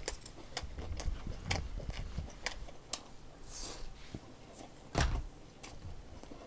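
Close-up chewing and mouth sounds of a person eating, with many short crisp clicks. A single louder knock comes about five seconds in.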